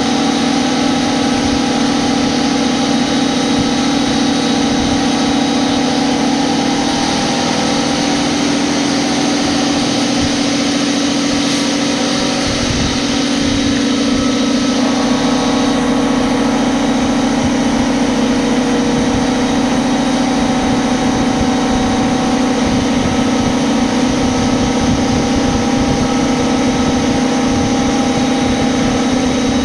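CNC machine running steadily while machining a mould plate: a loud, even machine hum with several steady tones, the tone pattern shifting about halfway through.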